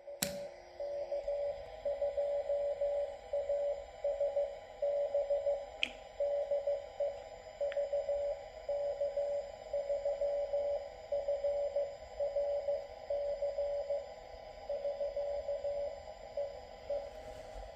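Morse code signal from another amateur station heard on a home-built SA612 shortwave receiver: a single steady beep tone keyed on and off in dots and dashes over faint receiver hiss.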